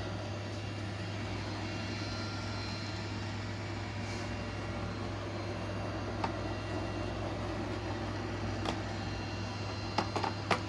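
A steady low mechanical hum with a few sharp clicks, one about six seconds in, one near nine seconds, and a quick cluster near the end, typical of plastic robot-vacuum parts being handled.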